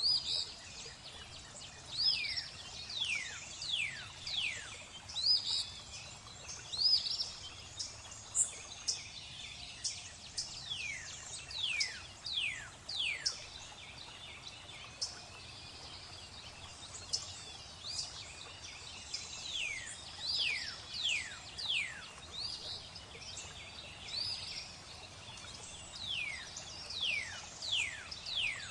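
Birds singing in repeated runs of quick, steeply falling whistled notes, over a steady hiss of flowing water.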